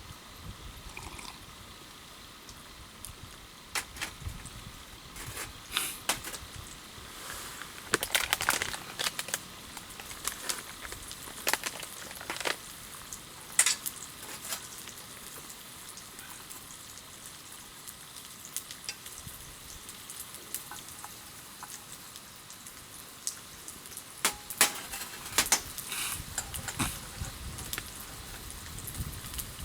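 Wood campfire crackling: a steady hiss with scattered sharp pops, coming in bunches through the first half and again near the end.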